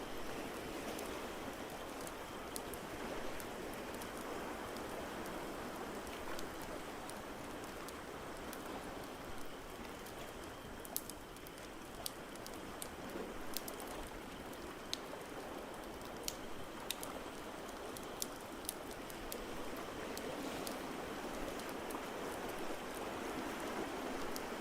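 Steady rushing wash of ocean waves with a crackling wood fire, its sharp irregular pops scattered over the top, more of them in the second half.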